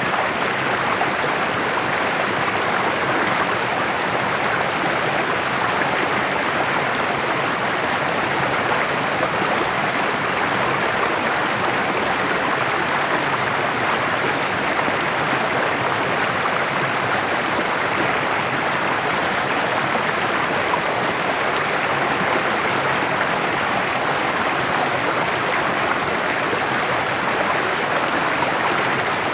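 Small rocky creek babbling and splashing as it flows over stones, a steady, unbroken rush of water.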